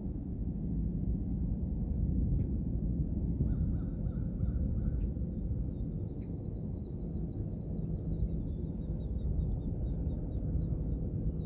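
Birds calling over a steady low rumble: a run of four quick repeated calls a few seconds in, then a series of high, arched notes around the middle.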